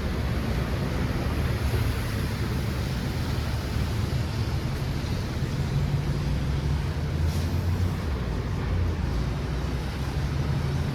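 Steady low rumble of city street traffic, with the hum of vehicle engines.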